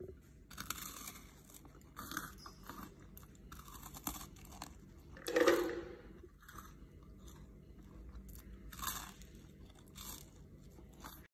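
Someone chewing crisp toasted garlic bread, with irregular crunches about every second and one louder crunch about halfway through.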